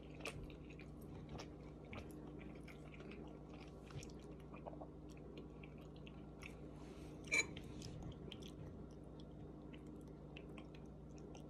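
Close-up chewing of a mouthful of thick udon noodles: faint wet clicks and smacks, with one brief louder mouth sound about seven seconds in, over a faint steady hum.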